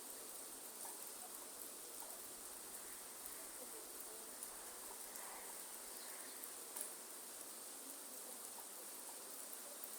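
Faint rain falling in a rainforest, a steady hiss with scattered drip ticks, one a little louder near seven seconds in, under a steady high-pitched insect chorus.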